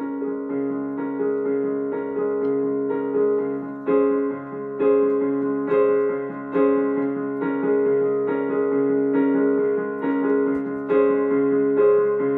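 Solo keyboard playing a song's introduction: sustained chords with a new chord struck about once a second in an even rhythm.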